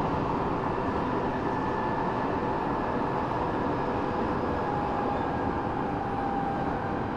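Eidan 6000-series subway car running on the rails, heard from the floor of the car: a steady rumble and rail noise with a faint whine that slowly falls in pitch.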